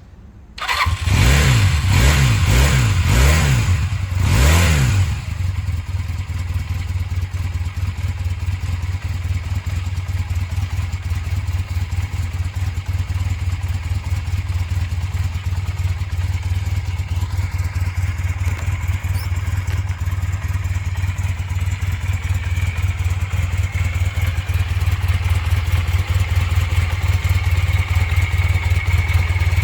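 Honda CB400N Hawk III's parallel-twin engine starting up, blipped four times, then settling into a steady idle.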